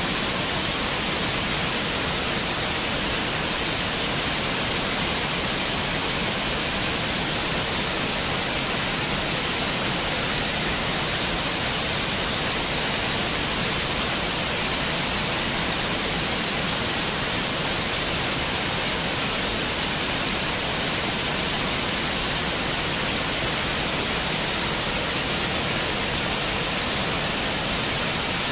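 Running water, a steady rushing splash like a stream or small waterfall, unchanging throughout with a bright hiss on top.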